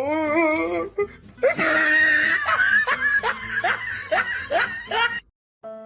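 A person laughing hard in a run of quick repeated bursts that stops abruptly about five seconds in. Soft music starts right at the end.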